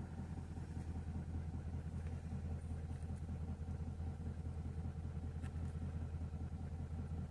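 2017 Nissan Titan XD's 5.0-litre Cummins V8 turbo-diesel idling steadily and evenly while still warming up from a cold start.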